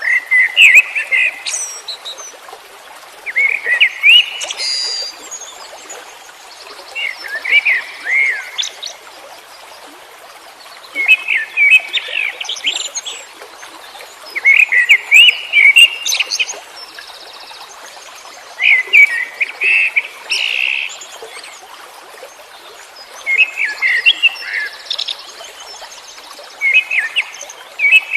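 A songbird singing short, varied, chirping phrases in bursts every few seconds, with brief pauses between them, over a steady background hiss.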